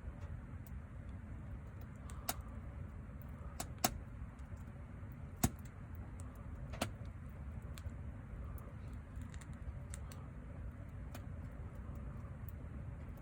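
Wood fire crackling: a low steady rumble broken by scattered sharp pops and snaps of burning wood, the loudest a few seconds apart in the first half.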